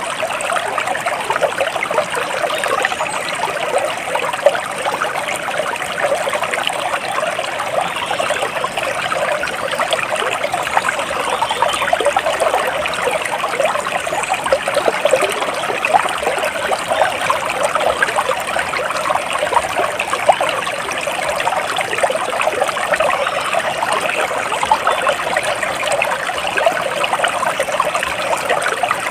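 Flowing water in a small stream, trickling and babbling steadily over stones.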